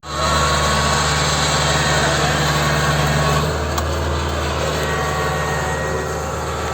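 A farm machine's engine running steadily, with a strong low hum; it cuts in abruptly at the start and eases off slightly about halfway through.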